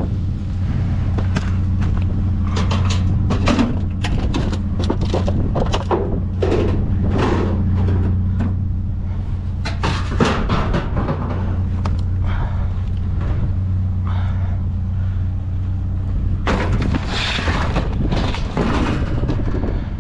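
Vehicle engine running steadily at idle, with repeated knocks and clatter over it, thickest in the first half and again near the end.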